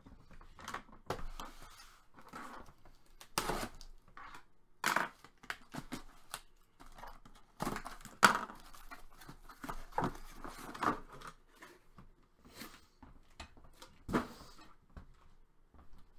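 Sealed boxes of hockey cards being opened: plastic wrap and cardboard being torn and crinkled, heard as irregular rustling bursts and sharp clicks.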